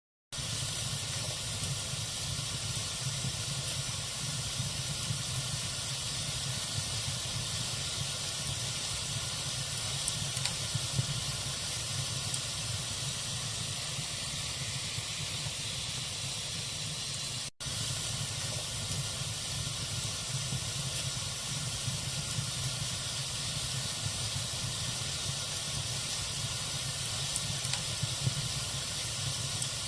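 Logs burning in a fireplace with a steady hiss and small scattered crackles. It starts after a moment of silence and cuts out for an instant a little past halfway.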